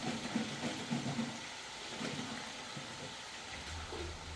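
Food sizzling as it fries in a pan: a steady hiss with a few light clicks of stirring.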